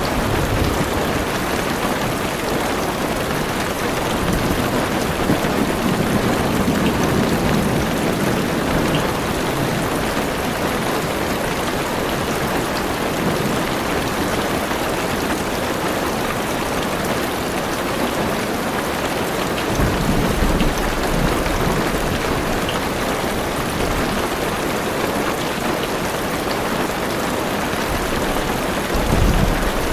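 Heavy rain drumming steadily on a car's roof and windows, heard from inside the car. Low rolls of thunder rumble under it, strongest about two-thirds in and again near the end.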